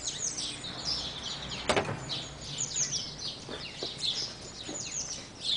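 Small birds chirping over and over in the background, with one sharp knock a little under two seconds in.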